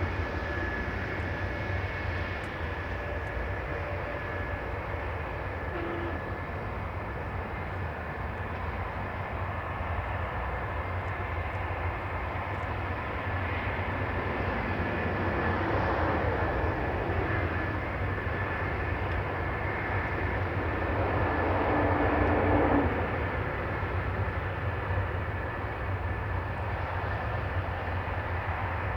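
Jet aircraft engines running: a steady rushing noise with a thin, steady high whine and low rumble, swelling louder about halfway through and again around three-quarters of the way, then easing back.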